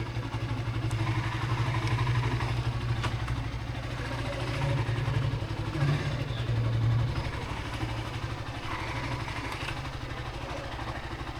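Motorcycle engine running at low speed, a steady low drone that swells slightly a couple of times around the middle.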